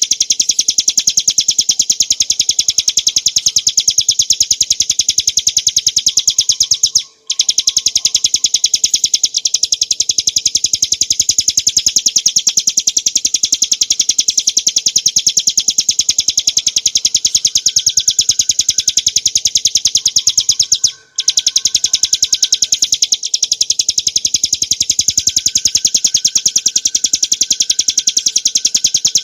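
Ciblek gunung, a small prinia, singing a loud, unbroken stream of rapid, high repeated notes. The song stops for a moment twice, about a third of the way in and again about two thirds in.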